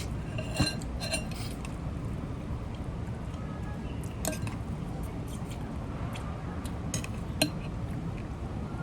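Scattered clinks and clicks of a seafood meal eaten at the table: shells and utensils knocking against a plate, with two sharper knocks, one about half a second in and one near the end. A low steady hum runs underneath.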